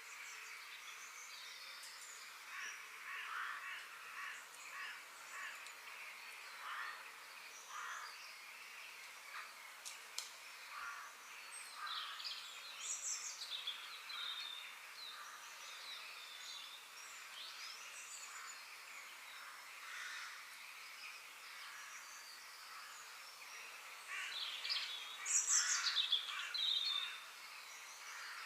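Birds chirping and calling over a steady background hiss, short calls coming every second or two, with a louder, busier flurry of chirps near the end.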